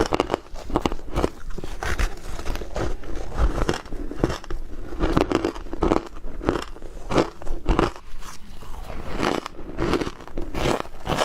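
Ice being bitten and chewed close to the microphone: a run of irregular crunches, several a second.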